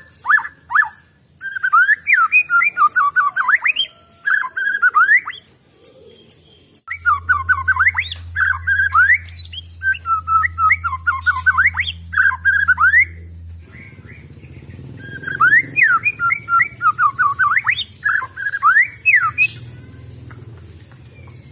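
White-rumped shama singing: three bouts of fast whistled notes and rising sweeps, separated by short pauses, with a steady low hum behind the later bouts.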